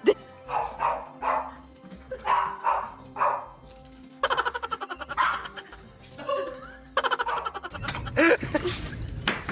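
Background music with a dog barking in repeated short bursts.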